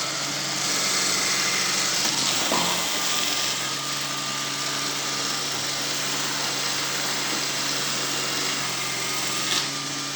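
Small engine of a motorized sweeping machine running steadily with a rush of air. The engine dips briefly about two and a half seconds in, then settles back to an even speed.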